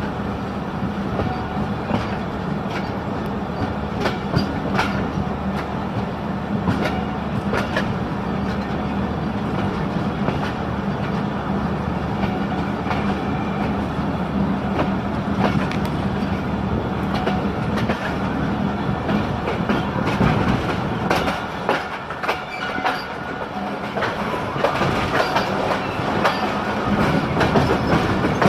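Pakistan Railways passenger train rolling through a station, its coaches' wheels clattering over the rail joints in a run of sharp clicks, over a steady low hum that fades near the end.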